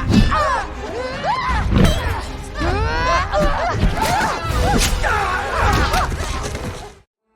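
Film action mix of a fight: many overlapping voices shouting and screaming over thuds, crashes and a low rumble, with music. It cuts off abruptly to silence near the end.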